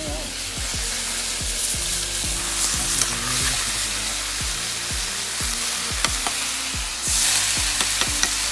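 Food sizzling and frying in hot oil in a karahi, the hiss growing louder about seven seconds in, over music with a steady beat.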